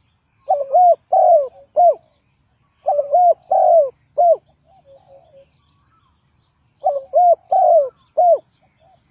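Spotted dove cooing: three repeated phrases of several short, arched coo notes, with a few soft notes between the phrases.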